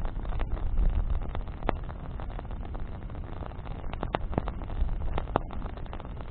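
Campfire of burning branches crackling, with sharp pops, a few close together in the second half, over a steady low rumble.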